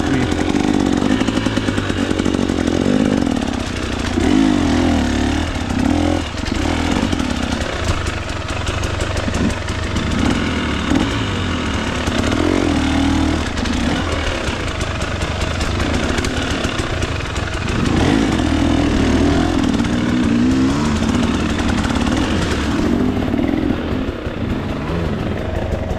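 2024 KTM 300 XC-W's single-cylinder two-stroke engine being ridden hard, its pitch rising and falling again and again as the throttle is worked on and off.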